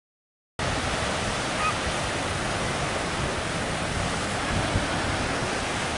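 Steady rush of ocean surf and wind, cutting in abruptly out of dead silence about half a second in.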